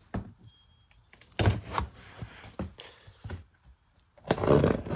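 Handling and opening the heater's cardboard shipping box: a run of knocks, thuds and scraping rustles, with a brief faint squeak near the start. A voice comes in near the end.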